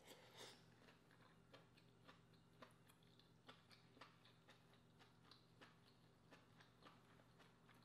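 Faint, irregular wet mouth clicks of closed-mouth chewing on lobster meat, a few a second, with a soft squishy bite at the start, over a low steady hum.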